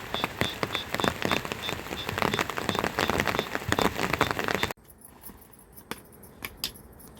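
Heavy rain falling hard on a surface, a dense crackle of drops, with a high chirp repeating about four times a second over it. It stops suddenly a little before the end, leaving only a few scattered drips and ticks.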